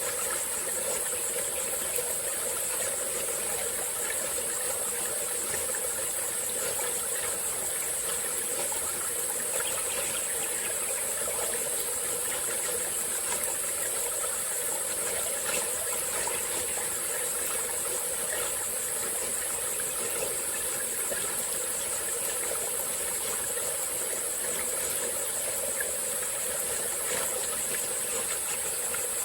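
A small tropical forest stream running steadily, with a constant high-pitched drone of insects over it.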